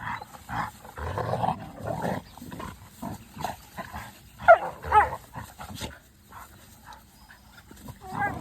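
Dogs play-fighting: a run of rough, low scuffling noises in the first two seconds, then two sharp, high yelps about four and a half seconds in.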